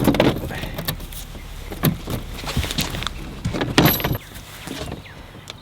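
A fitting being worked into place by hand: a string of scrapes and clunks, the longest and loudest about four seconds in.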